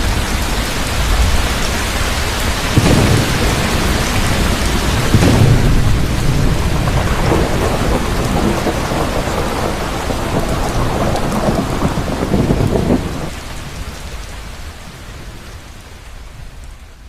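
Heavy rain falling steadily with rolling thunder rumbling low several times, the rumbles swelling about three and five seconds in and again through the middle. The whole storm fades out over the last few seconds.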